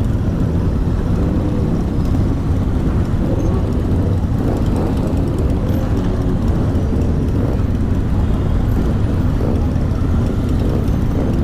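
Motorcycle engine running steadily on the move, under a constant low wind rumble on the microphone.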